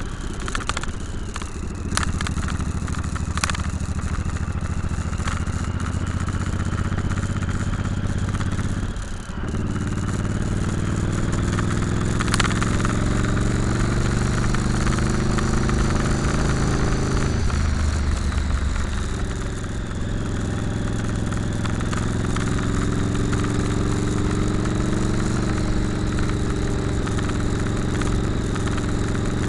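Motorcycle engine under way on the road, over a steady rush of noise. The engine drops off briefly about nine seconds in, then rises in pitch as it pulls, changes again around eighteen seconds, and runs steady after that.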